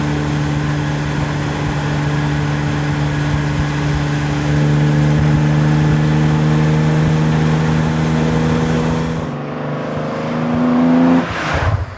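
Classic Maserati GT engine running steadily, then revs step up about four and a half seconds in and climb further before the sound falls away sharply near the end.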